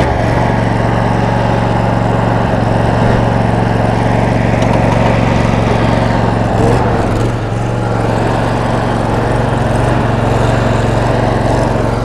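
Roper lawn tractor's 22 hp Briggs & Stratton V-twin engine running steadily, easing off slightly about halfway through.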